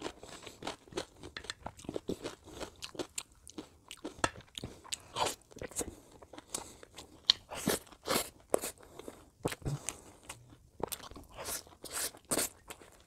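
Close-miked chewing: many short, irregular crunches from a mouthful of crisp cucumber, with food picked up by hand from the plate.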